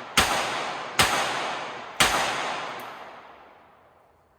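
Three single-action revolver shots about a second apart, each sharp crack trailing off in a long echo that fades out over the last couple of seconds.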